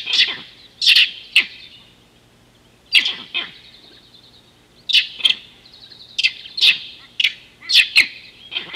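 Wild birds calling: a string of short, sharp chirps, often in quick pairs or clusters, with a pause of about a second and a half early on.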